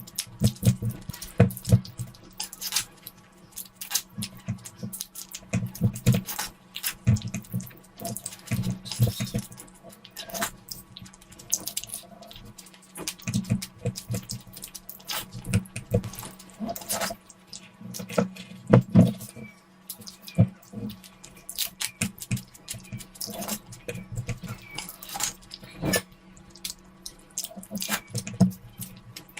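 Close-miked eating sounds: wet chewing, smacking and slurping, with many irregular short mouth clicks throughout.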